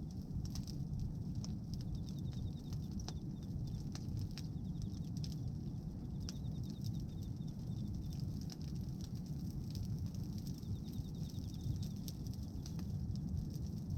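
Bonfire of pruned branches burning: scattered sharp crackles and pops over a steady low rumble.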